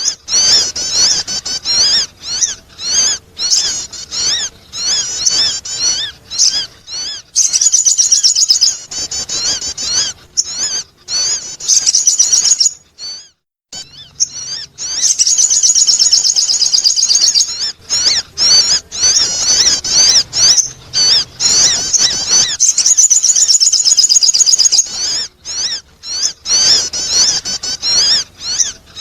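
Sogon bird calling in a rapid, high-pitched twittering chatter of quick repeated notes, breaking off briefly about halfway through; a call of the kind played to lure birds.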